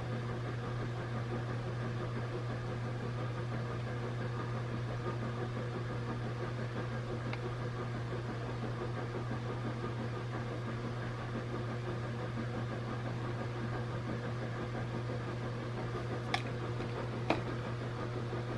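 Steady low mechanical hum from a running motor or fan, even in level throughout, with two light clicks near the end.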